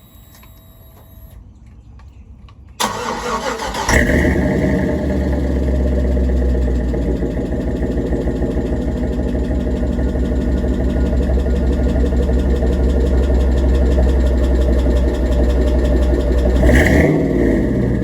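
Starter cranks about three seconds in, and the truck's swapped-in LS V8 catches a second later. It settles into a steady idle with a deep rumble through a new exhaust: 3-inch inlet, Thrush welded muffler and 2.5-inch side-dump outlet. The sound changes briefly near the end.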